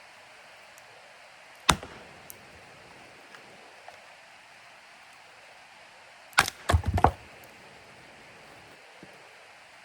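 Firewood logs being split with chopping blows: one sharp crack about two seconds in, then a quick cluster of four or five blows and cracking wood a few seconds later.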